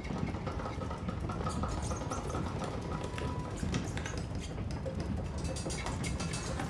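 Steady low rumble of a moving train carriage, with faint scratching and small high squeaks of rats overhead in the carriage roof.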